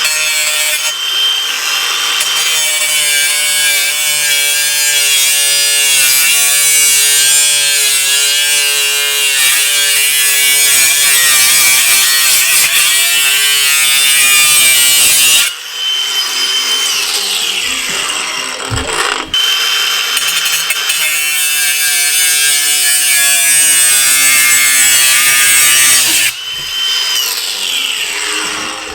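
Ryobi 18V brushless angle grinder cutting metal: a loud high whine with a harsh hiss of the wheel biting the steel. The cut stops twice, about halfway through and again near the end, each time with the whine falling as the wheel coasts down; cutting resumes in between.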